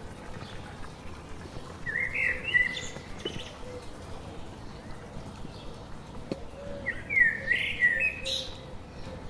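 A forest bird singing two short phrases of quick notes that jump up and down in pitch, about two seconds in and again about seven seconds in, over a steady hiss of forest ambience.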